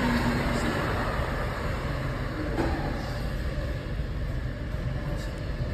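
Amtrak passenger train rolling past, heard from indoors through a closed window: a steady, muffled rolling noise of wheels on rail that slowly fades.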